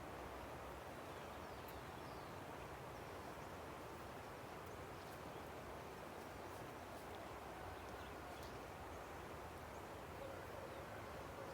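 Steady rush of a river, with faint scattered bird chirps over it.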